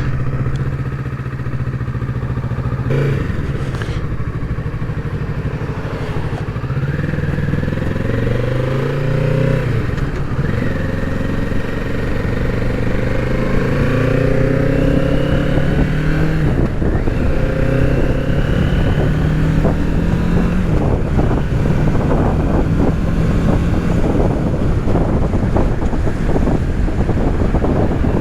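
2025 Kawasaki Z650's parallel-twin engine running steadily for a few seconds, then accelerating through the gears in several rising runs, each broken off by a shift. Wind buffeting on the microphone builds toward the end.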